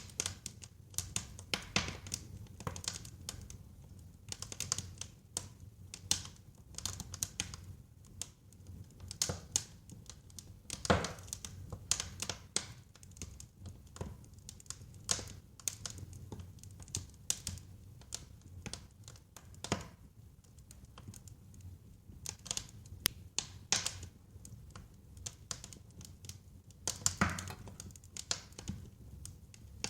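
Wood fire burning in a fireplace: irregular crackles and sharp pops over a low steady rumble of flames, with louder pops about eleven seconds in and near the end.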